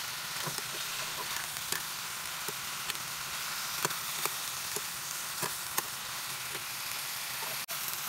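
Eggplant slices and ground meat sizzling as they are sautéed in a stainless steel pot, with a steady frying hiss and the stirring utensil clicking and scraping against the pot every so often.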